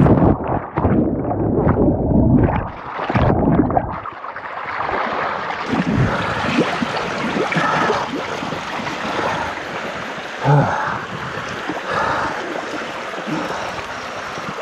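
Royal Enfield Himalayan 450's single-cylinder engine revving unevenly with splashing as it pushes through a stream, then stopping abruptly about four seconds in. After that, only the steady rush of the stream's water.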